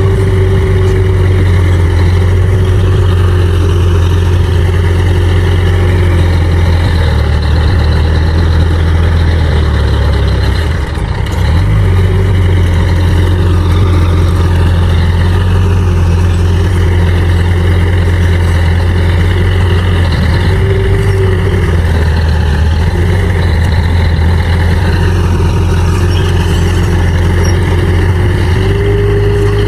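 Crawler bulldozer's diesel engine running loud and steady while working, with a brief drop about ten seconds in and a whining tone that comes and goes.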